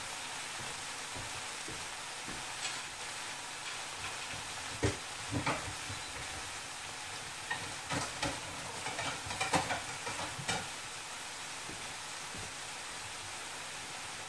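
Browned ground sausage and onions sizzling in a frying pan with a steady hiss, still frying on the residual heat of an electric burner that has just been switched off. A few short knocks and clinks come about five seconds in and again between about eight and ten and a half seconds.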